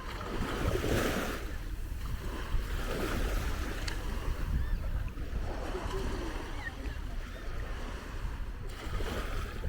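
Small waves washing onto a sandy beach, swelling and ebbing every few seconds, with wind rumbling on the microphone.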